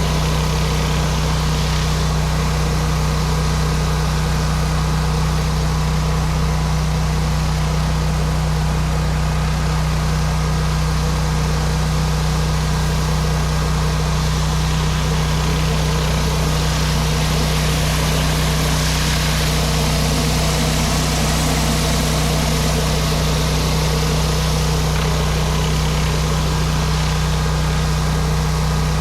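Pressure washer's engine running steadily under load, with a constant hiss of the water spray that gets a little stronger around the middle.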